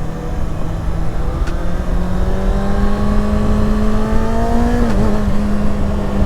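Kawasaki ZX-6R's 636 cc inline-four running under way: the engine note climbs slowly for a few seconds, dips sharply near the five-second mark, then holds steady. A steady low rush of riding wind runs underneath.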